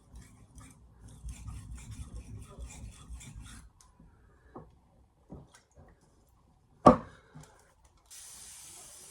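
Knife blade being drawn in quick rhythmic strokes across a 6000-grit polishing whetstone, a wet scraping rub, for about three and a half seconds. Then a few light taps and one sharp knock about seven seconds in, and a short hiss near the end.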